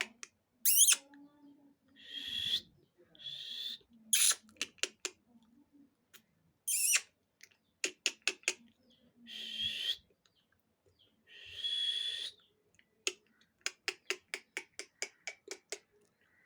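A parrot giving short, sharp screeches and longer raspy, hissing calls, with runs of quick clicks, about eight a second, between them.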